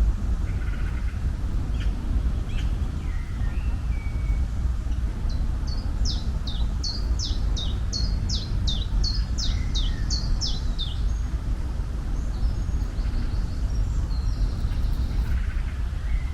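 Songbird calling over a steady low rumble: scattered chirps, then a run of about a dozen quick high notes, each sliding down in pitch, roughly two a second, from about five seconds in to about eleven.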